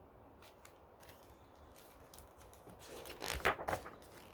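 A paper page of a picture book being turned: a short rustle about three seconds in, with faint small paper ticks before it.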